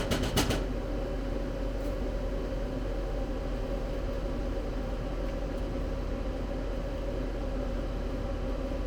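Steady hum of a kitchen fan, with a quick run of clicks right at the start.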